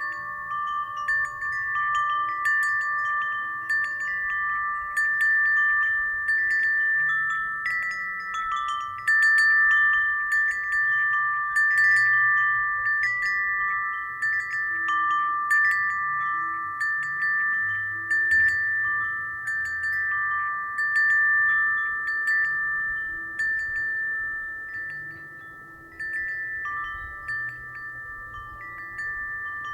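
Wind chime ringing in the breeze: several clear tones struck at irregular moments, each ringing on and overlapping the next. It goes quieter for a moment near the end, then rings on more softly.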